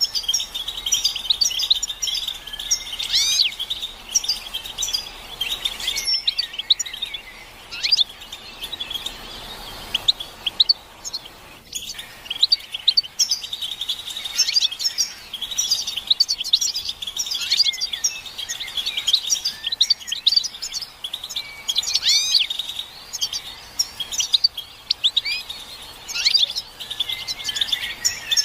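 A group of European goldfinches twittering and calling: dense, overlapping quick chirps and short rising and falling notes with no pause, apart from a brief break about twelve seconds in. These are goldfinch mating and readiness calls, used to stir a silent male into song.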